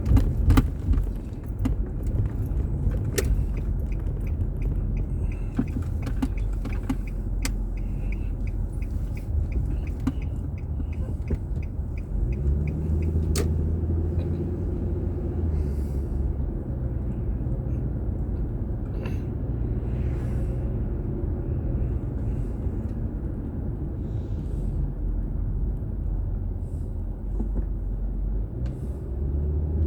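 A car driving, heard from a dashboard camera inside the cabin: a steady low rumble of engine and road noise, with the engine note rising from about twelve seconds in as it pulls away, and scattered light clicks.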